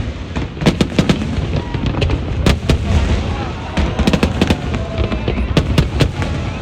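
Fireworks display: many sharp bangs and crackles going off in quick, irregular succession over a continuous low rumble.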